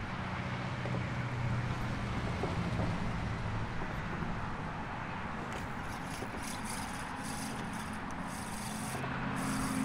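A motor vehicle's engine running, a steady low hum that grows stronger near the end, under a constant outdoor wash of wind and water noise.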